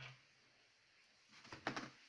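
Plastic vacuum-cleaner housing parts being handled during reassembly: a light knock at the start, then a quick run of several clicks and knocks about one and a half seconds in.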